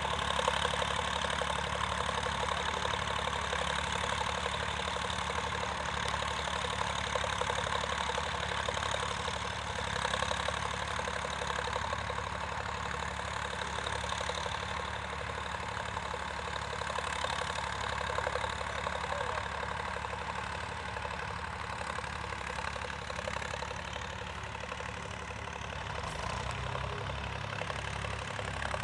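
Vintage tractor engine running steadily, with a busy mechanical clatter over its low note. Near the end the engine note changes and steps up.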